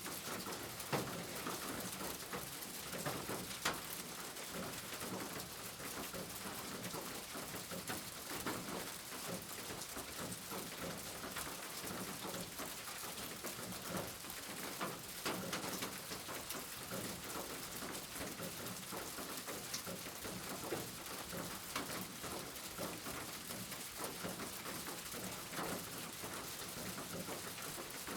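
Steady rain falling, an even hiss with many separate drops ticking and pattering on a surface.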